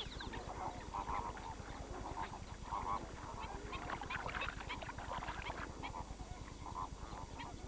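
A dense chorus of many waterbirds calling at once, short calls overlapping without a break.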